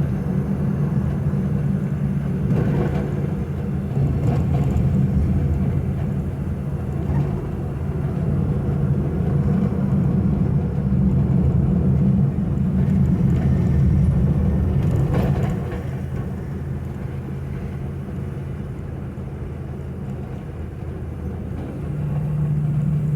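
1953 Ford's flathead V8 running under way in third gear without overdrive, a steady engine drone. About 15 seconds in the engine note drops quieter, then it picks up again near the end.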